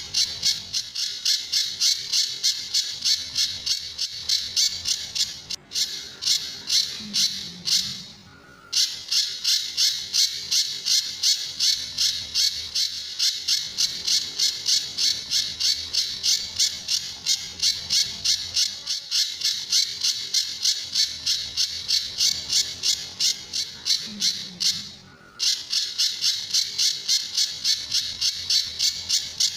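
Pijantur bird calling in a fast, even string of sharp high repeated notes, about three a second, the rapid-fire 'tembakan' (shot) pattern prized in training recordings, with two brief pauses.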